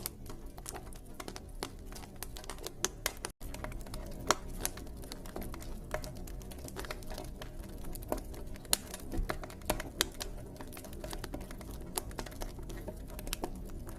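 Campfire crackling: irregular sharp pops and snaps of burning wood over a steady low rumble, cut by a brief gap about three and a half seconds in.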